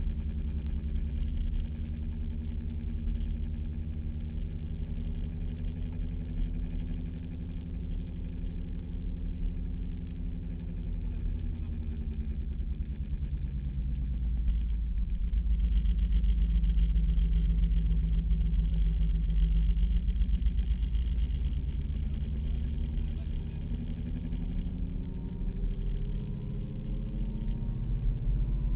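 Opel Corsa's engine heard from inside the car while it is driven on a race track. The revs sag over the first ten seconds or so, then climb and the engine is loudest mid-way, before easing and rising again near the end.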